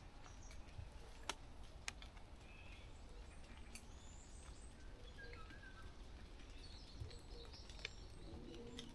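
A quiet forest with scattered, faint, distant bird chirps over a steady low rumble. A few sharp clicks are heard here and there.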